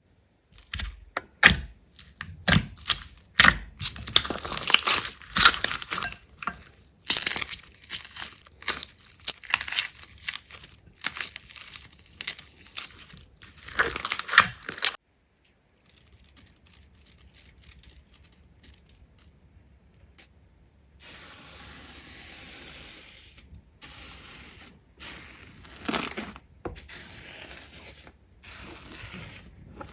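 Slime being squeezed, pressed and poked by hand, making sharp pops, clicks and crackles that come thick and loud for the first half. After about fifteen seconds it goes much quieter, and from about twenty seconds a softer, denser crackle runs on.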